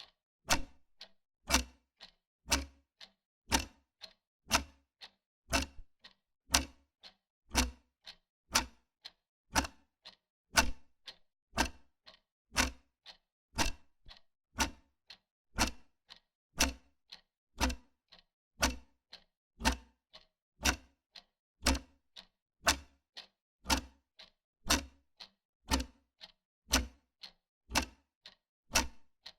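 Wall clock ticking steadily, about two ticks a second in an even rhythm.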